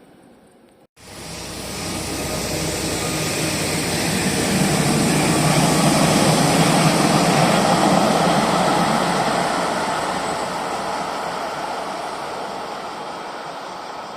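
A train passing by: a broad rushing noise starts abruptly about a second in, builds to its loudest midway and slowly fades.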